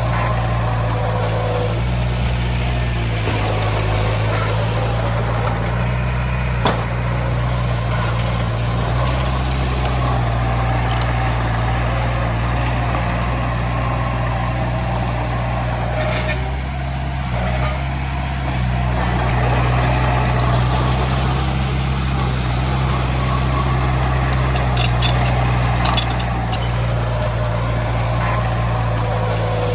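Heavy diesel engine of earthmoving equipment running steadily, with a slight dip about 17 seconds in and a brief sharp knock about seven seconds in.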